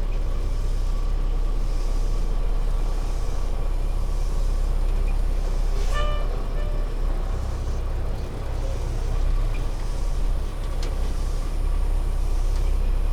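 Kenworth T660 semi truck with a PACCAR MX-13 diesel driving on the highway: a steady low engine drone under road and wind noise.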